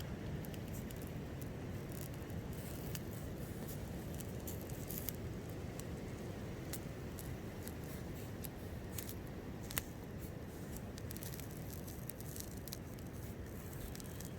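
Wind rumbling steadily, with scattered sharp crackles and clicks from an open campfire and one louder snap about ten seconds in.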